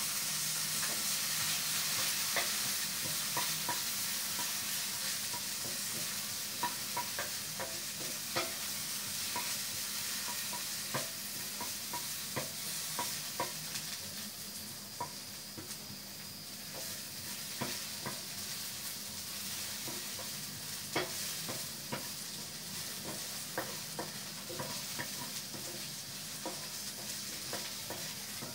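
Sliced ginger and garlic sizzling in hot oil in a pan while a wooden spatula stirs them. The spatula's scrapes and taps against the pan come as scattered short clicks over the steady sizzle.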